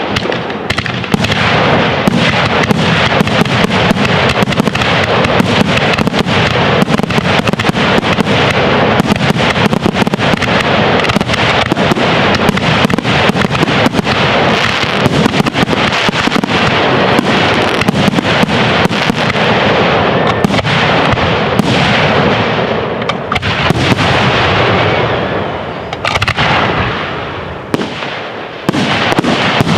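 Fireworks display in full barrage: a dense, continuous run of bangs and crackling bursts, thinning briefly a few seconds before the end before picking up again.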